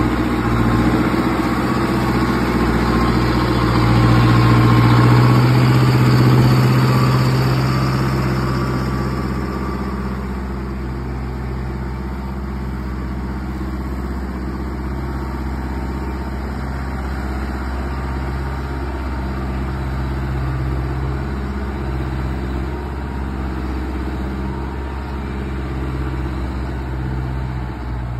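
4x4 tractor's diesel engine running steadily, a little louder for a few seconds near the start before settling to an even hum.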